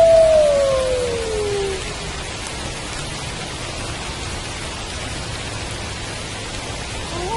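Steady rain falling. Over it, a wolf's howl slides down in pitch and dies away in the first couple of seconds, and another howl begins right at the end.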